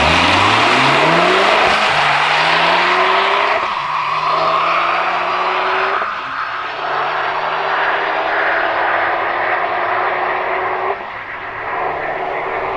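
A Type R car accelerating hard down a drag strip, its engine pitch climbing in each gear. Three upshifts, at about 4, 6 and 11 seconds in, each drop the pitch before it climbs again. The sound grows somewhat quieter as the car pulls away.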